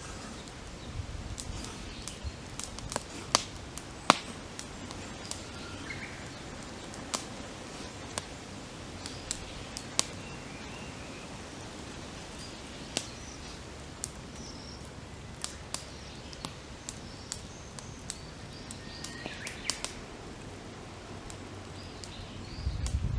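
Wood campfire crackling, with sharp pops at irregular intervals, while small birds chirp now and then. A low rumble comes in near the end.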